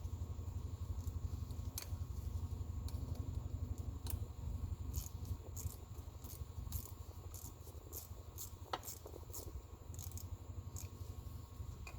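Scattered light clicks and ticks, as of small parts or tools being handled, at irregular intervals over a steady low hum.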